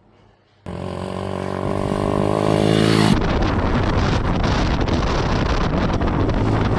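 Dirt bike engines running: a steady engine note for about two seconds, then a sudden cut about three seconds in to bikes riding with wind buffeting the microphone.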